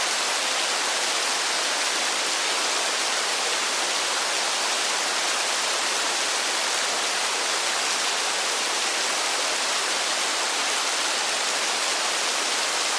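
Steady rain, an even hiss without distinct drops or thunder.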